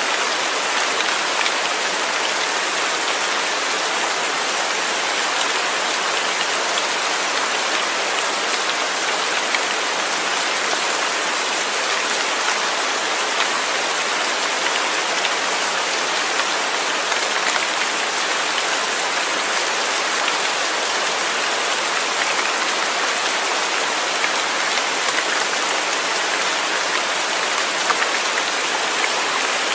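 Steady, heavy rain falling and pattering on a surface, an even hiss with fine drop spatter and no let-up.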